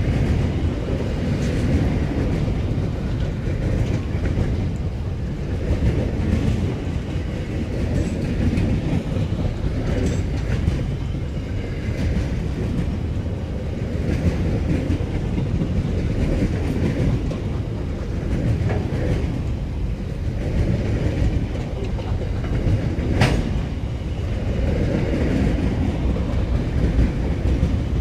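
Freight train wagons rolling past: a steady rumble of steel wheels on the rails that swells and eases slightly as the cars go by, with one sharp metallic knock about 23 seconds in.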